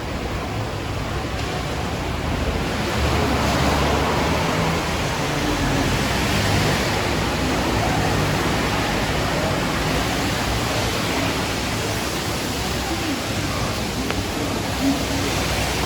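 Steady hiss of rain on a city street, swelling a little about three seconds in, with a low rumble underneath.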